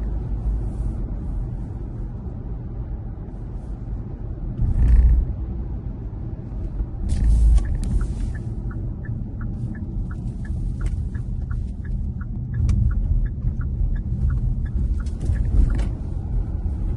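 Car cabin road noise, a steady low rumble with two louder swells about a third and halfway through. In the second half a turn signal ticks steadily, about two to three clicks a second.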